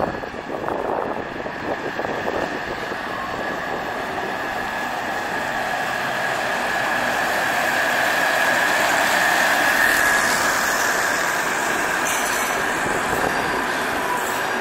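Passenger train hauled by a Köf III (DB class 332) diesel shunting locomotive rolling past, its wheels running on the rails with a steady high squeal. The sound swells as the coaches draw close, loudest about two thirds of the way through.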